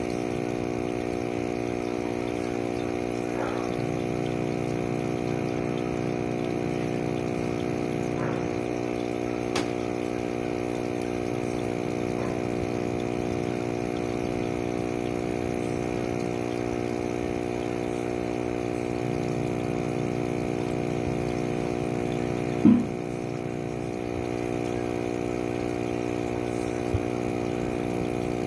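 Steady mechanical hum of a small motor, with one sharp knock near the end.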